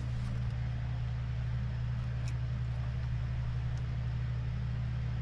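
Steady low hum with even overtones, like a running engine or machine, with a couple of faint small clicks.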